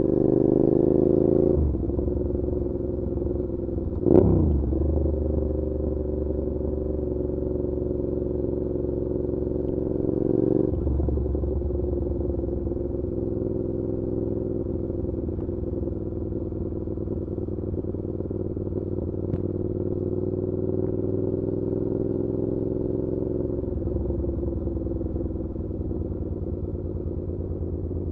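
Suzuki SV650's V-twin engine through an SC Project exhaust while riding: it pulls up in pitch and drops on a gear change about a second and a half in, gives a short sharp burst around four seconds, rises and shifts again about ten seconds in, then holds a steady cruising drone.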